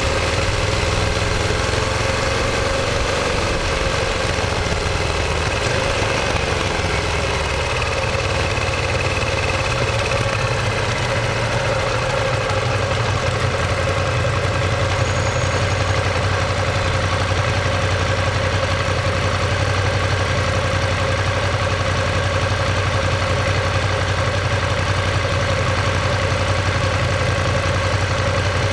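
Ducati Monster 1200S's V-twin engine and exhaust running at a steady speed, its pitch dipping slightly and recovering about six seconds in.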